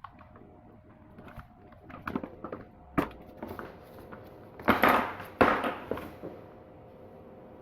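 Tools and engine parts being handled on the bench: scattered clicks and knocks, one sharp knock about three seconds in, and two louder clattering bursts around the middle, over a faint steady hum.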